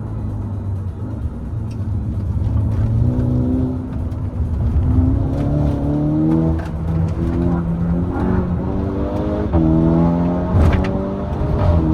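VW Golf GTI Mk6 Edition 35's turbocharged 2.0 TFSI four-cylinder, with a decat downpipe, running at low revs and then accelerating from about three seconds in, the engine note climbing and breaking off in repeated steps as the gears change. A few short sharp cracks come from the exhaust near the end.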